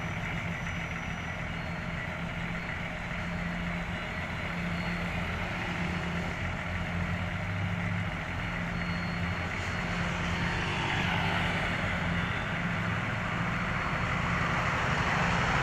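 Heavy road-construction machinery with diesel engines running steadily. A hissing noise swells over the last few seconds as the sound grows louder.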